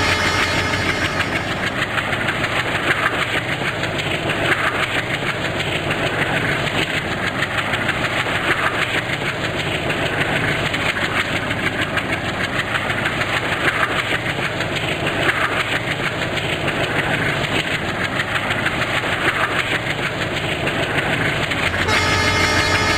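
Train running on the track: a steady, loud rumble of wheels on rail, with wheel clatter swelling every second or two.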